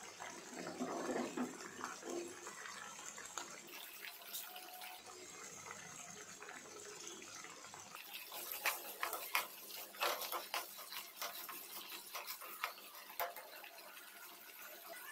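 Chopped onions, green chillies, peanuts and cashews sizzling in hot ghee in a pan. About eight seconds in, a quick run of crackles and pops starts as curry leaves go into the hot ghee.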